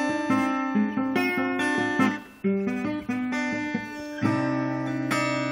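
Acoustic guitar playing the closing bars of a song: a run of single picked notes, a short pause a little over two seconds in, then a final chord near the end that is left to ring.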